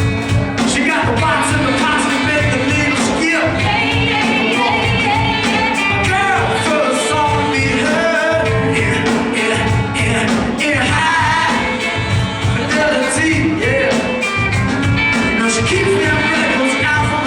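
Live band playing a song, with a lead singer's voice over drums, bass and the rest of the band, loud and steady throughout.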